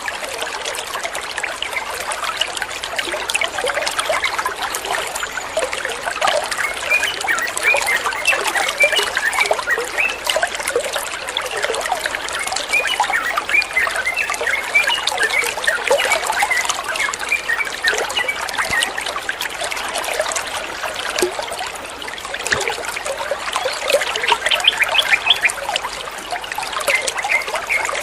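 Running water trickling and bubbling steadily, like a small stream, with many small plinks and gurgles.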